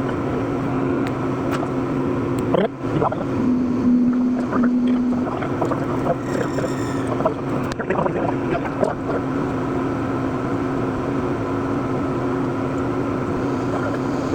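Okuma CNC lathe running behind its closed door, turning a 416 stainless steel shift knob with coolant flowing: a steady machine hum with scattered clicks and knocks. A short steady tone sounds twice about three and a half seconds in, and a brief high whine follows a few seconds later.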